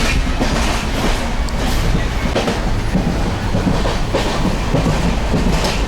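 Indian passenger train running, heard from inside the carriage: a steady rumble and rattle of the coach, with a few clicks of the wheels over rail joints.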